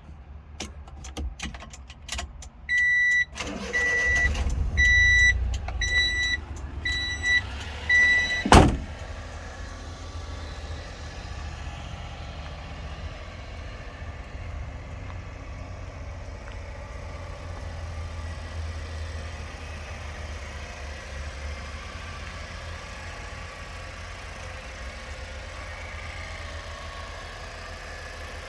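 Several clicks, then a 1994 Honda Acty's small three-cylinder engine cranks and starts about three seconds in while a warning buzzer beeps about seven times. A single sharp bang near nine seconds in, then the engine idles steadily.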